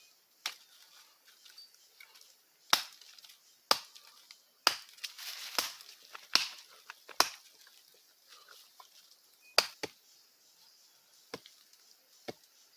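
Firewood being cut or broken up: about ten sharp, irregularly spaced wooden cracks and knocks.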